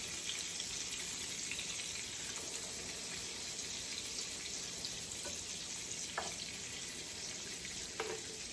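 Blackened-seasoned salmon fillets sizzling in hot oil and butter in a skillet, a steady frying hiss. Two light knocks come about six and eight seconds in.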